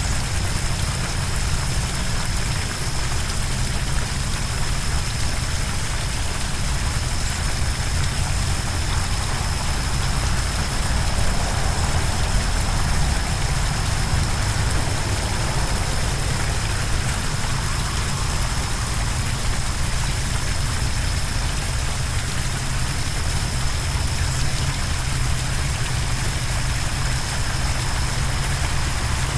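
Steady roar of a large waterfall: rushing water with a deep rumble, unbroken throughout, and a thin steady high tone over it.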